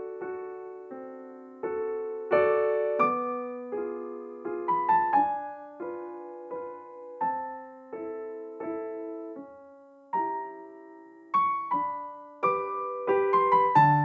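Solo piano background music: a slow, gentle melody of struck notes that ring and fade, with chords underneath.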